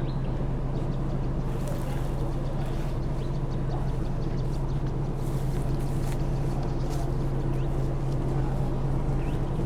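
Bus engine idling steadily with an even low hum, with faint scattered clicks and ticks above it.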